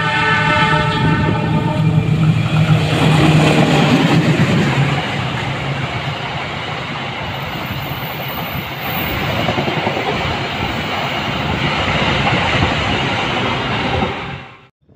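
A CC 206 diesel-electric locomotive hauling the Taksaka passenger train sounds its horn as it arrives. Its engine is loud for the first few seconds, falling in pitch as it passes. The coaches then run by with a steady rushing rumble and rhythmic clacking of wheels on rail, and the sound cuts off suddenly near the end.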